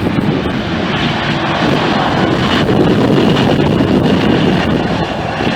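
Jet airliner engine noise, steady and loud, with wind buffeting the microphone.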